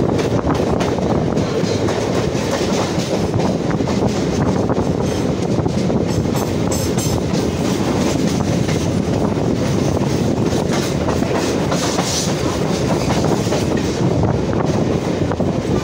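Chennai MRTS electric multiple-unit train running at speed, heard from its open doorway: a steady loud rumble of wheels on rail with rapid clickety-clack and rattling throughout.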